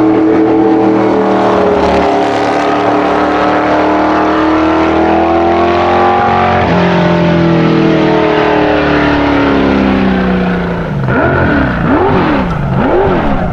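Race car engine at full throttle, the revs climbing steadily before a gear change about two-thirds of the way through, then climbing again. Near the end the revs swing up and down about four times in quick succession.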